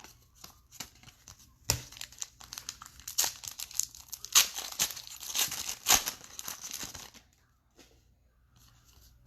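Wrapper of a pack of 2019 Unparalleled football trading cards being torn open and crinkled by hand: a quick run of crackles and rips that stops about seven seconds in.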